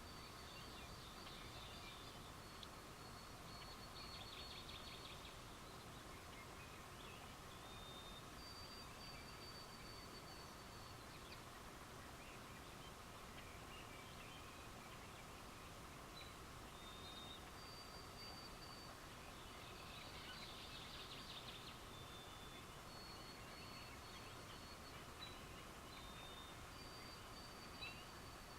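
Faint night chorus of calling wildlife: high, thin, drawn-out trills repeat every few seconds, and a buzzier pulsed trill sounds twice, over a steady background hum.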